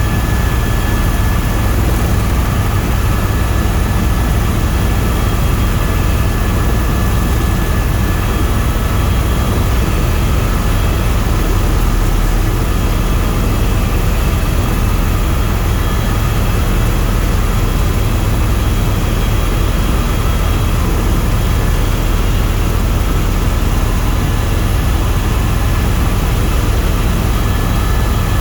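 Tour helicopter in flight: a steady, loud drone of engine and rotor with a few thin whining tones over it.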